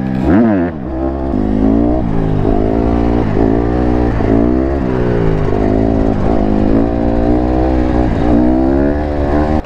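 Yamaha YZ125 two-stroke single-cylinder dirt bike engine being ridden, revving up and down about once a second as the throttle is opened and shut.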